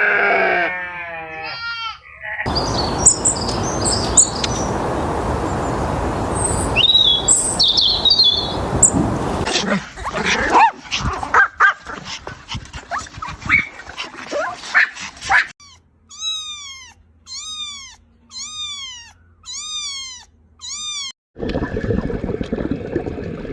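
A run of different animal calls one after another. Partway through comes a series of about seven short, evenly spaced high calls that each fall in pitch.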